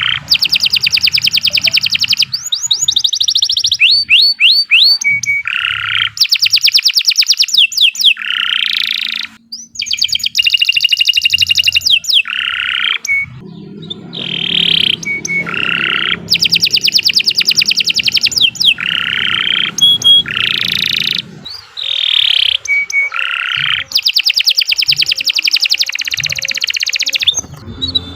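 Domestic canary singing a long, unbroken song of fast trills, rising and falling whistled sweeps and repeated rolling phrases, pausing only briefly once.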